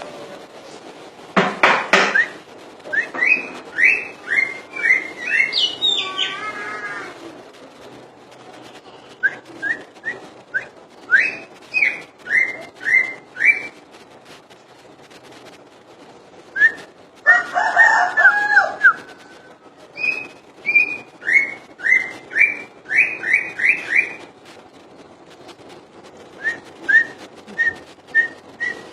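Green leafbird (cucak ijo) singing at full volume: phrases of rapid, repeated sharp chirping notes, about two to four a second, separated by short pauses, with one lower, more jumbled phrase midway.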